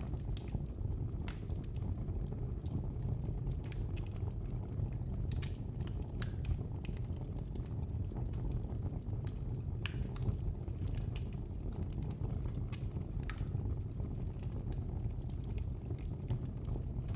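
Fire in a fireplace crackling: irregular sharp pops and snaps over a steady low rumble of the burning fire.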